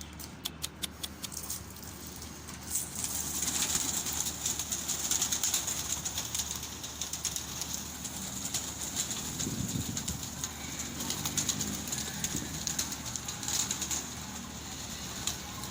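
Domestic pigeons' wings flapping as the flock flies around the loft, a dense fluttering that swells and fades, after a quick run of sharp clicks near the start.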